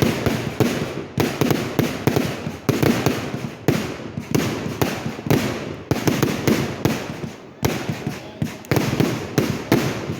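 Fireworks going off in a dense, rapid barrage of overlapping bangs and crackles, easing briefly about three quarters of the way through before a sharp bang starts it up again.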